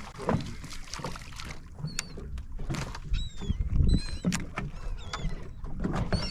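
Seabirds feeding over the water, giving a string of short, high, gliding cries, over a low rumble with scattered knocks from the boat.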